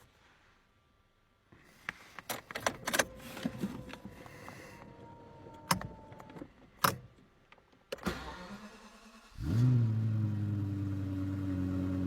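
Lexus LFA's 4.8-litre V10 starting about nine seconds in: a quick flare of revs that drops and settles into a steady idle. Before it, a run of sharp clicks and knocks with a faint steady tone.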